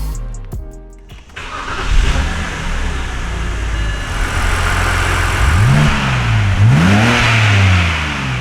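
A BMW E90's newly swapped-in engine starts up a little over a second in and idles, then is revved twice, each rev rising and falling back to idle. It sounds healthy and fairly quiet. A closing music track fades out at the very start.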